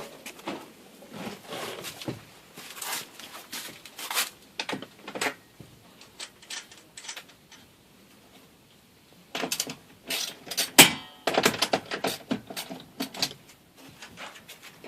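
Small metal hardware such as self-tapping screws clinking and rattling as it is handled, with irregular knocks. A quieter lull comes partway through, then a busier run of sharp clinks and clatter.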